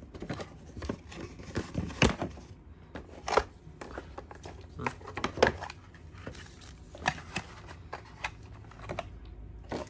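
Irregular light clicks and knocks as a Zippo lighter and its pouch and box are handled and packed away.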